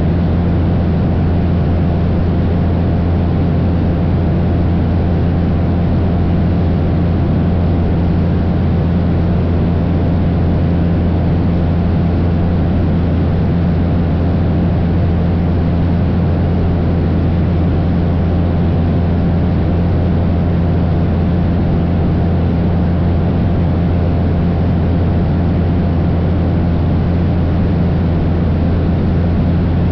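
Cessna 172's piston engine and propeller running steadily in flight, a loud, even drone with a low hum and a constant rush of airflow noise that does not change.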